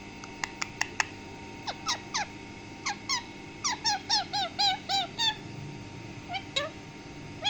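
Pet green parrot making short chirps and squeaks, with a few sharp clicks in the first second and a quick run of short rising-and-falling calls around the middle.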